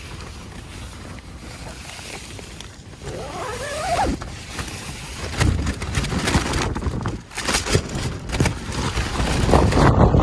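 Strong, gusty wind on the microphone, growing louder and more buffeting from about halfway through. A brief rising pitched sound comes near four seconds in.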